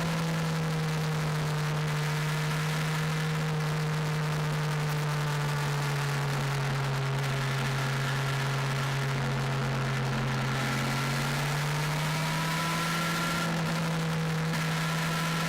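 Yamaha FZS 600 Fazer's inline-four engine running under way at a steady cruise, its pitch easing down slowly and then rising again after about twelve seconds, with wind rush over it.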